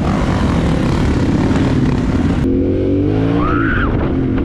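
Dirt bike engine running under way, with wind rushing on the microphone; about two and a half seconds in the wind noise cuts off abruptly and the engine note comes through clearly, rising slightly in pitch.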